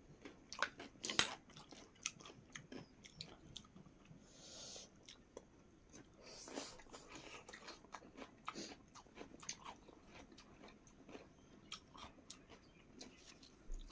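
Eating sounds of people chewing a meal of chicken, rice and pickle: wet chewing and lip smacks with many short clicks. There are two brief hissing sounds, about four and six and a half seconds in.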